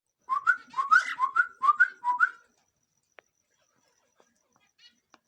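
Cockatiel whistling a quick run of six short rising notes over about two seconds, followed by a few faint clicks.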